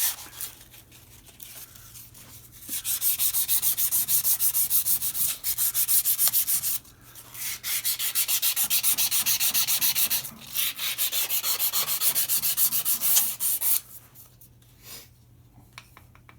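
Rapid back-and-forth hand rubbing of an abrasive on the metal mounting faces of a brake lathe cutter head, dressing them flat, about five strokes a second. It pauses briefly near the start and stops about three-quarters of the way through.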